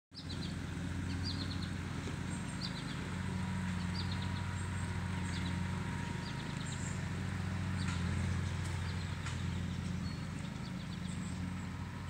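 Small birds giving short, high chirping trills about once a second over a steady low mechanical hum.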